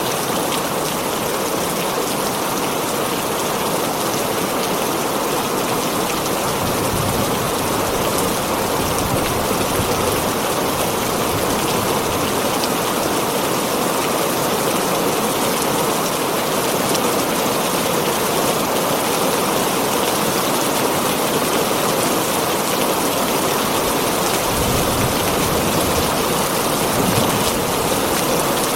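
Heavy rain falling steadily on a tin roof, a dense even hiss of drops. Near the end a brief low rumble rises under it.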